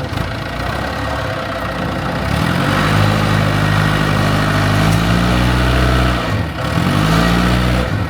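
Engine of a heavy construction machine running. It revs up about two seconds in and holds, then dips briefly near the end before revving back up.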